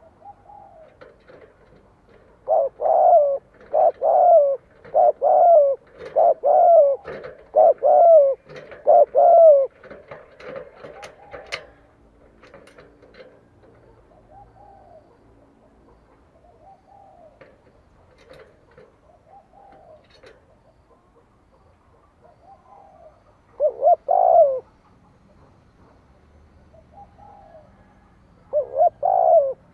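Spotted dove cooing in the bowing 'gù' style of a decoy bird: a quick run of about seven loud coos, then softer coos, with two more short loud runs in the middle and near the end.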